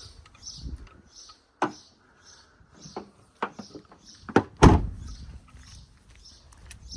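A string of sharp plastic clicks and knocks from handling the handheld car vacuum and its loose attachment, with the motor switched off, and one heavy thump about halfway through.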